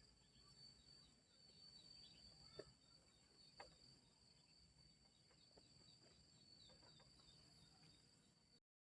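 Faint outdoor ambience: insects keep up a steady high-pitched drone, with small quick chirps and two soft knocks. The sound drops out completely just before the end.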